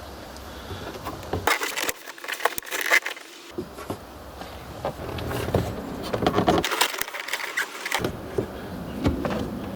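Plastic trim clips being pulled out of a car's roof by hand one after another: a run of sharp clicks and small plastic rattles.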